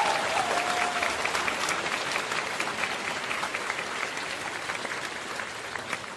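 Applause: many hands clapping densely, fading out gradually.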